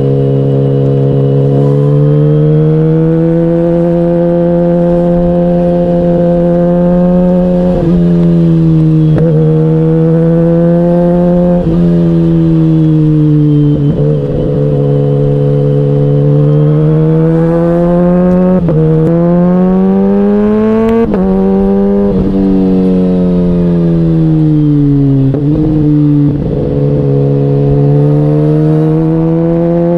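KTM 125 Duke's single-cylinder engine running under way. Its pitch rises as it revs up and falls as it eases off, again and again, with brief dips where gears change.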